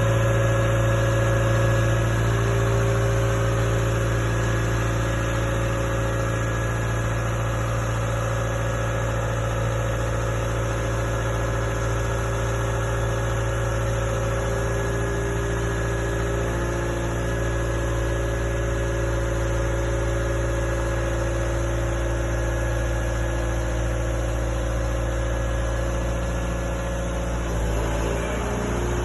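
Vehicle engine idling steadily at an even pitch.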